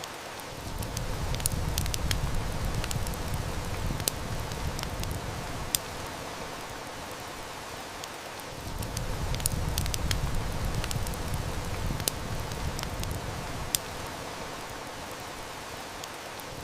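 Heavy rain falling as a steady hiss, with the sharp snaps of a crackling wood fire scattered through it. Under them a deep low rumble swells and fades twice.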